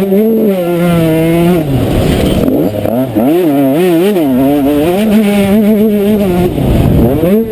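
Motocross bike engine heard close up, revving with the throttle. Its pitch holds, drops sharply about two seconds in, then rises and falls in quick blips, and near the end drops and climbs again.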